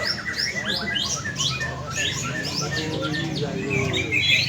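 Several green leafbirds (cucak ijo) singing at once, a dense, overlapping stream of fast chirps and quick downward-sweeping whistles.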